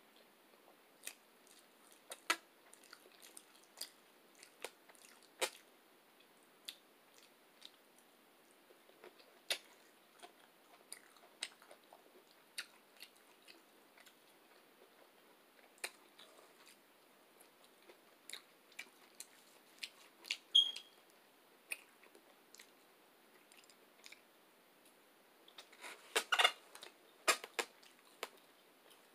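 Close-up mouth sounds of someone chewing injera and meat: scattered wet clicks and smacks, with a brief run of louder, quicker clicks about two seconds before the end.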